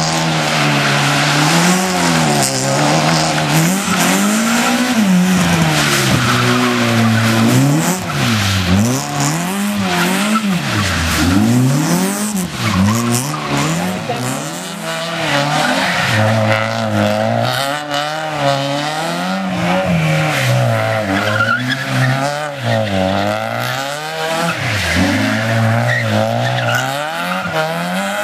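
Car engine revving hard and dropping back again and again as the car is thrown through a tight cone course, with tyres squealing and skidding through handbrake turns.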